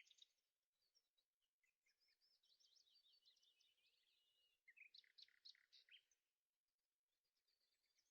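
Faint birdsong: small birds chirping and twittering in quick runs. There is a long twittering phrase, then a burst of louder chirps about five seconds in, then softer twittering near the end.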